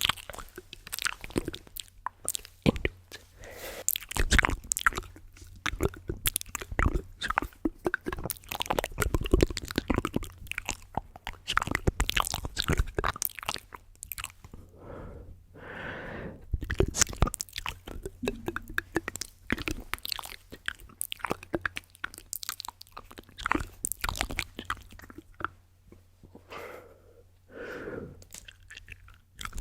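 Close-miked ASMR mouth sounds and tapping: dense, irregular clicks and crackles, with a few softer breathy mouth noises around the middle and again near the end.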